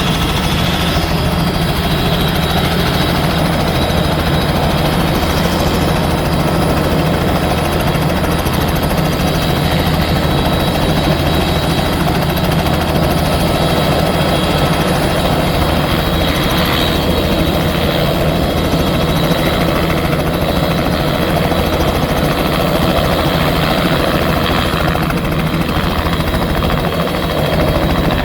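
Helicopter running steadily: a continuous heavy, fast rotor beat with a steady high whine over it.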